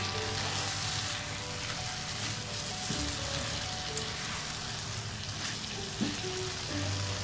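Chicken and yogurt masala sizzling in a non-stick pan as it is stirred with a silicone spatula, with two light clicks about four and six seconds in, over background music.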